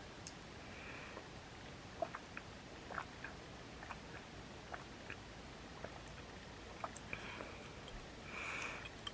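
A person chewing food with the mouth close to the microphone: soft, scattered wet clicks and smacks, with a short breathy exhale a little before the end.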